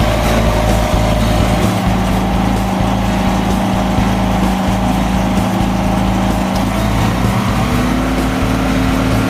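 GreenMech QuadTrak 160 wood chipper's engine running steadily, its note stepping up in pitch about eight seconds in.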